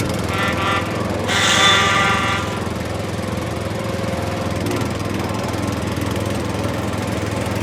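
A small engine running steadily with an even, rhythmic chug. Two short horn-like tones sound near the start, the second one longer and louder.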